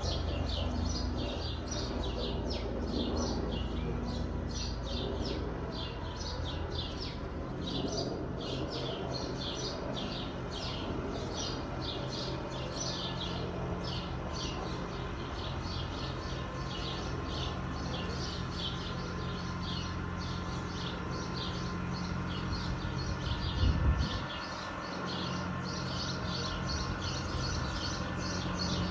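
A bird chirping in quick repeated notes, several a second, over the steady low drone of a distant Fiat 766 DT tractor's diesel engine; a single short thump near the end.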